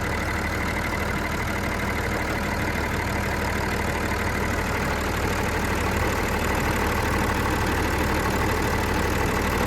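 A John Deere diesel engine idling steadily.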